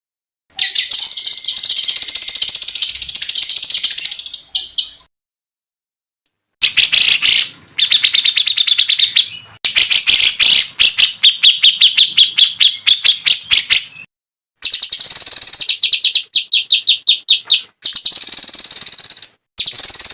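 Songbird song: loud phrases of very rapid high-pitched trills and rattling note series, each a second to a few seconds long, starting and stopping abruptly with short silent gaps between them.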